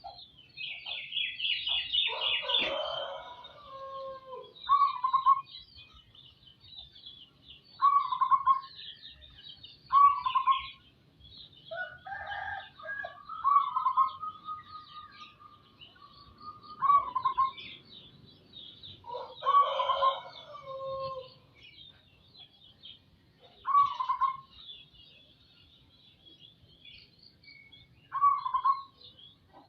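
Zebra dove cooing, short calls repeated every two to four seconds, over a steady twitter of small birds chirping. A rooster crows twice, near the start and about two-thirds of the way through.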